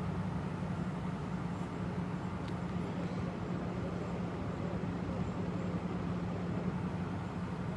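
Vehicle engine idling steadily: an even, constant low hum with no change.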